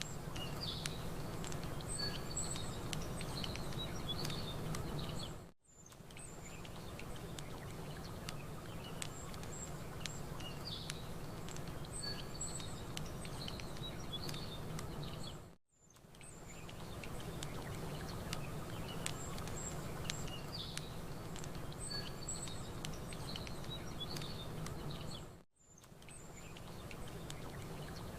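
Campfire crackling with small birds chirping over a steady low wash of lake water. The whole bed briefly fades out and back in three times, about ten seconds apart, as the ambience loop restarts.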